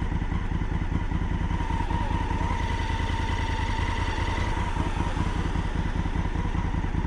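Honda Africa Twin motorcycle engine running steadily at a constant pace, an even drone with no revving up or down.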